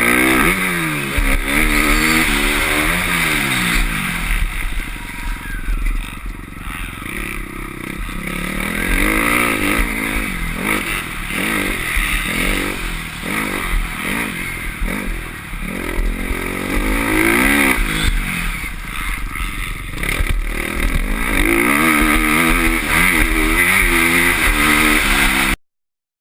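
Motocross bike engine revving up and down again and again as the throttle is opened and closed, heard through a helmet-mounted camera's microphone with a steady rush of noise. The sound cuts off abruptly near the end.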